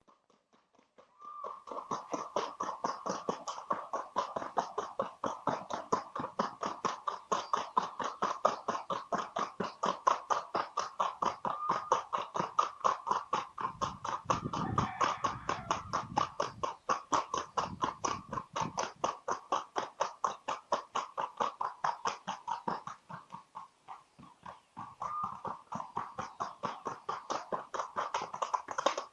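A gaited horse's hooves beating a fast, even rhythm, about five strikes a second. The hoofbeats fade briefly near the end, then resume.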